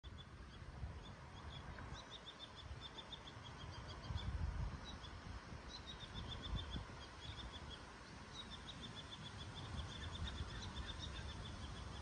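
A small bird calling in runs of quick, high chirps, about six notes a second, in several bouts of a second or two each. Underneath runs a low rumble, loudest about four seconds in.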